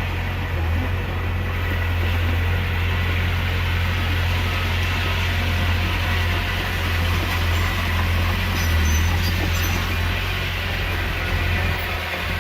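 Heavy diesel engine of earthmoving machinery running steadily with a deep low drone, with a few faint high clinks about eight to nine seconds in.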